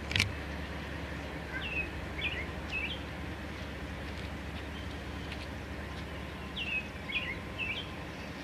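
A songbird singing two short phrases of quick falling chirps, about two seconds in and again near seven seconds, over a steady low background rumble.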